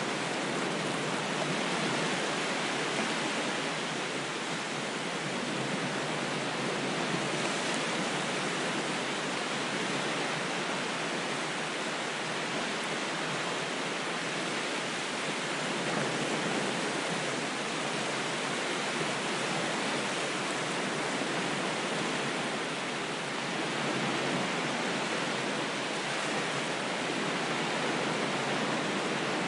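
Ocean surf rushing, an even hiss with only slight swells in level.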